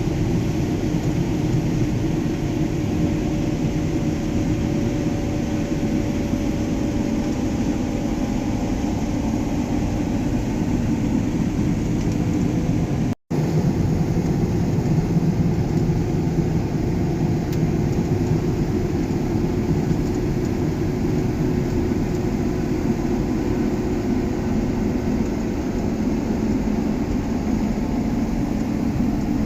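John Deere S680 combine running steadily under load while harvesting, a constant low mechanical hum with a few steady tones. About thirteen seconds in, the sound cuts out for an instant and comes back slightly changed.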